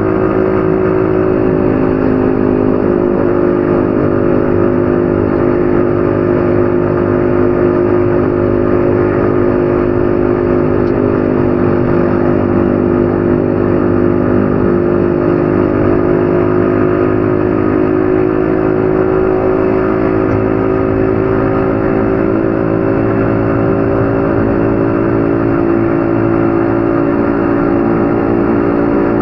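Yamaha XSR155's 155 cc single-cylinder engine running at a steady cruise while riding. Its pitch eases slightly about a second in, holds, then rises a little near the end.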